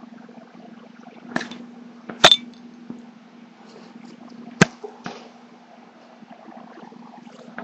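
Sun conure pecking and biting at a plastic Logitech webcam: a handful of sharp clicks and taps, the loudest about two seconds in and just past halfway, over a steady low hum.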